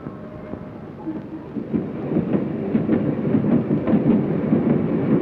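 Freight train running on the rails, a steady rumble with scattered clatter that grows louder about two seconds in.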